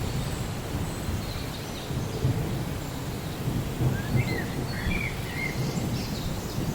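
Rainforest ambience: a steady low rumble of distant thunder with rain, and a bird calling a few short, curving chirps about two-thirds of the way through.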